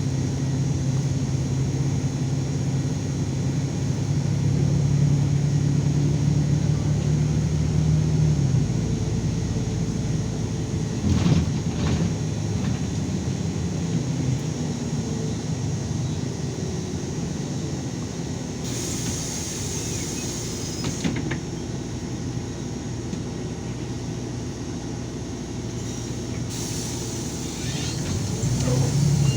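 LiAZ 5292.22 city bus heard from inside: the engine runs with a steady note, then drops to a lower rumble about eight seconds in. There is a clatter a few seconds later and two brief bursts of hiss in the second half. The engine note builds again at the very end.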